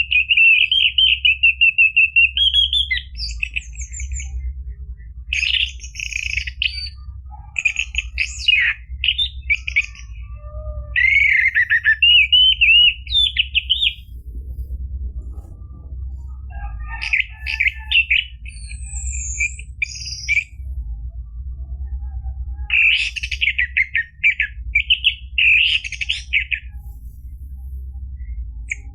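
Orange-headed thrush (anis merah) singing: phrases of quick, varied trills and chirps lasting a few seconds each, with short pauses between, over a steady low hum.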